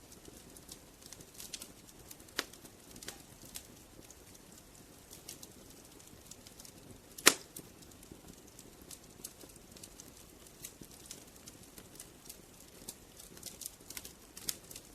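Wood fire crackling: scattered small sharp pops and ticks from the burning firewood over a soft low hiss, with one loud pop about halfway through.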